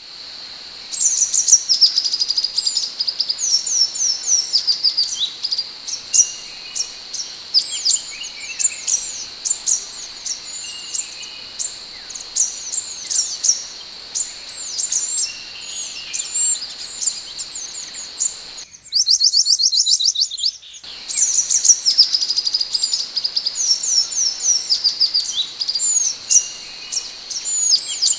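Minivet (sepah hutan) calling in fast runs of high, sharp, whistled chirps over a steady high buzz. About two-thirds of the way through there is a couple of seconds of a different, rapid buzzy trill.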